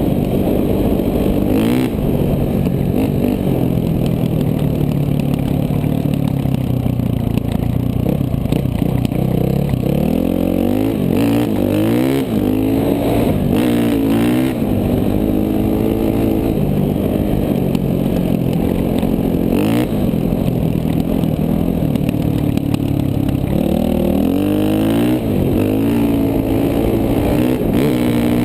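KTM 450 dual-sport motorcycle's single-cylinder four-stroke engine running hard, its pitch climbing and dropping again and again as the rider opens and closes the throttle.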